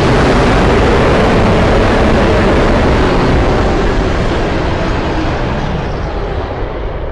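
A custom roar sound effect: one long, loud, rumbling roar without a clear pitch that holds steady and slowly fades near the end.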